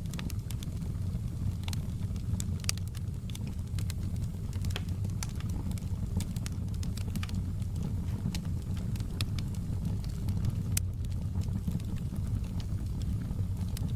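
Burning logs in a fireplace crackling: scattered sharp pops and snaps at irregular intervals over a steady low rumble.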